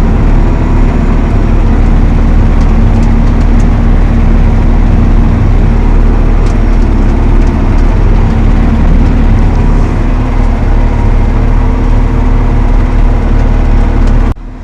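Valtra T214 tractor's diesel engine running steadily, a loud even drone. It breaks off abruptly near the end.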